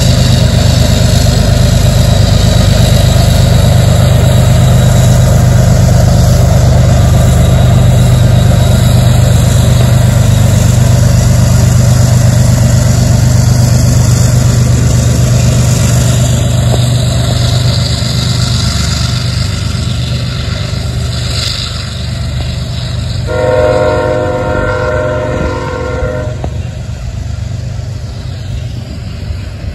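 Loaded coal train passing behind diesel locomotives that are working hard with a deep, steady drone as they lug the heavy load up a slight incline. Then come the loaded coal hoppers rolling by, with one horn blast of about three seconds roughly three-quarters of the way through.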